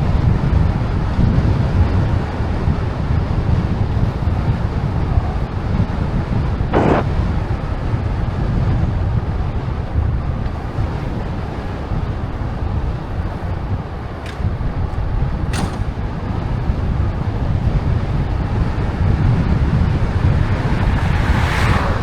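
Wind buffeting the microphone while riding a bicycle: a steady low rumble, broken by a few brief sharp ticks or knocks.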